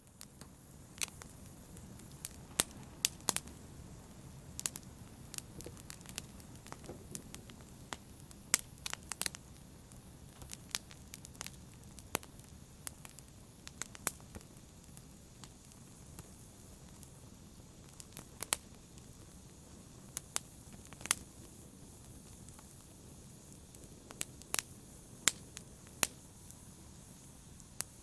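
Fire burning in a fireplace, crackling: sharp, irregular pops and snaps, one to several a second, over a low steady rustle of the flames.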